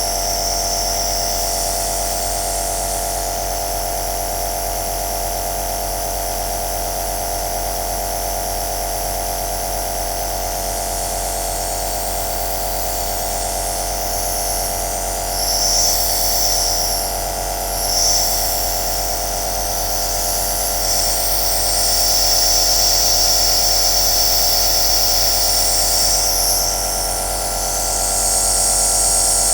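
Compressor nebulizer (aerosol machine) running steadily: a motor hum with a high hiss of air that swells louder several times, around the middle and near the end.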